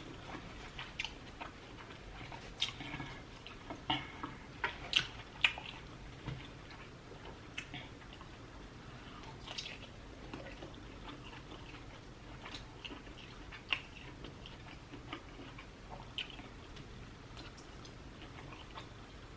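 Close-up chewing of tender lobster tail meat: soft, wet mouth clicks and smacks, clustered in the first several seconds, then scattered.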